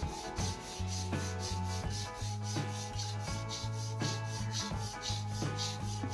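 Sandpaper rubbing on a wooden snooker cue shaft in quick, regular back-and-forth strokes, about three a second.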